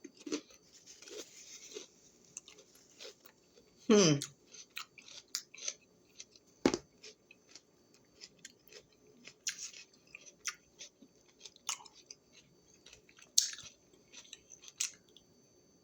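A person chewing a crunchy raw bell pepper snack: a steady run of short, wet crunching clicks.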